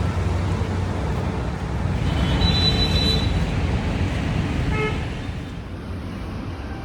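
Road traffic rumbling steadily, with a vehicle horn sounding for about a second some two and a half seconds in and a brief second toot near five seconds.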